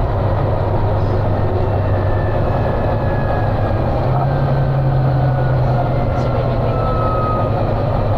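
Volvo B9TL double-decker bus's engine running hard under load, heard from on board. The engine note steps up about halfway through, and a faint whine slowly falls in pitch.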